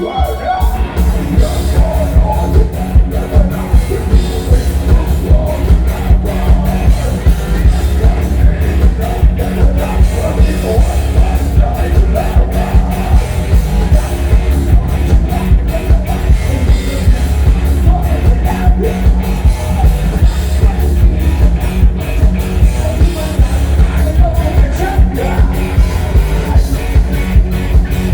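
Live rock band playing loudly through a PA, a steady drum beat over heavy bass and guitar, with singing and a crowd yelling along.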